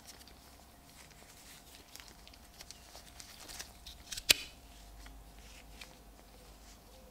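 Quiet handling of a folding pocket knife: light ticks and scrapes, then one sharp click about four seconds in.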